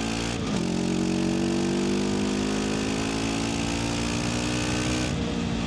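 Voge 525 DSX motorcycle's parallel-twin engine through its stock exhaust, pulling under opened throttle. The engine note dips briefly about half a second in, then climbs and holds, and drops away near the end as the throttle eases.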